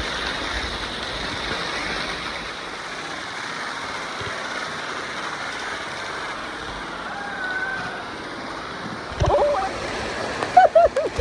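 Steady rush of flowing river water, with louder, uneven splashing from about nine seconds in.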